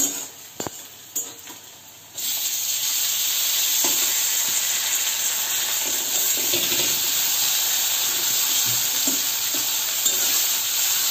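Sizzling in a hot wok of onions frying in oil as chopped tomatoes go in, with a metal spatula stirring and scraping. A few spatula clicks come first, then the loud sizzle starts suddenly about two seconds in and carries on steadily.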